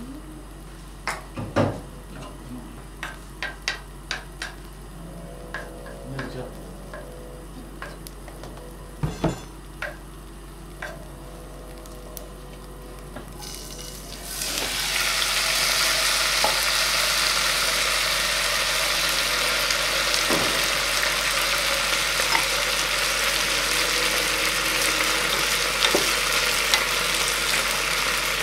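Scattered light clicks and taps, then about halfway through shredded potato goes into a hot pan and a loud, steady frying sizzle starts and keeps going.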